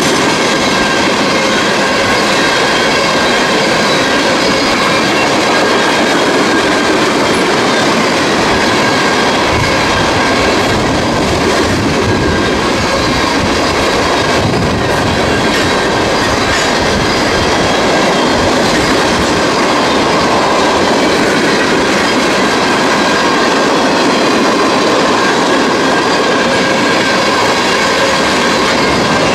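Freight train cars rolling past close by, a steady loud rumble and rattle of wheels on the rails with clicking over the rail joints. A steady high wheel squeal runs over it throughout.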